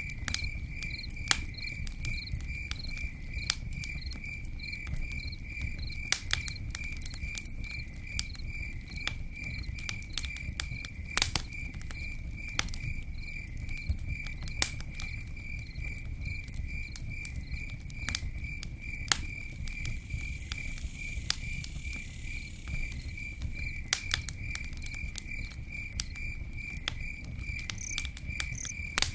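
Campfire burning with irregular sharp crackles and pops over a low rushing noise, while a cricket chirps steadily about twice a second.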